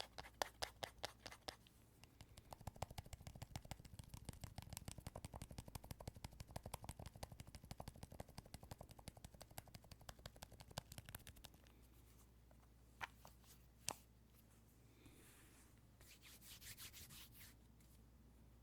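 Rapid tapping on an earphone case, sharp and clicky at first, then a long run of duller, quicker taps that stops about eleven seconds in. Two single clicks follow, then a brief scratchy rustle near the end.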